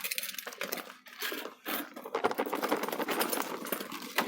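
Plastic bag crinkling and rustling as it is handled: a rapid run of fine crackles starting about a second in.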